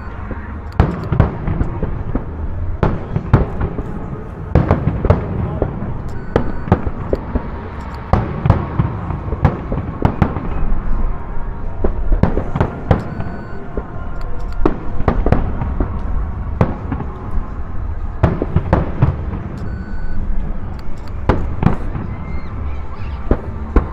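Fireworks display: a rapid run of sharp shell bangs, often more than one a second, over continuous crackling and rumble.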